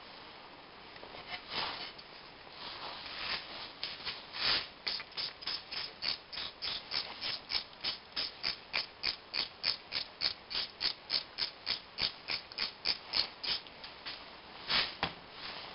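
Rhythmic scraping strokes, about three a second, from hand abrasive work on a Peugeot 206 1.1 cylinder head. They start out irregular, settle into a steady back-and-forth rhythm, and stop shortly before the end.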